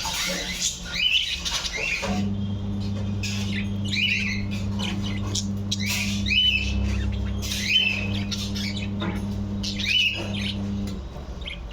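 Budgerigars squawking and chirping in short, repeated calls. Underneath, a steady low hum drops out briefly near the start and again near the end.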